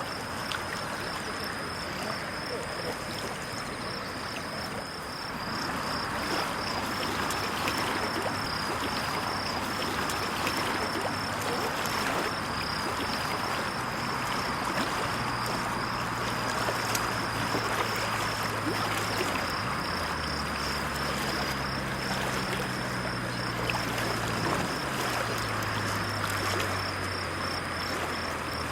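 Small waves lapping steadily against a lakeshore, with faint splashes and trickles. About halfway through, a low engine hum joins in, shifting pitch a couple of times.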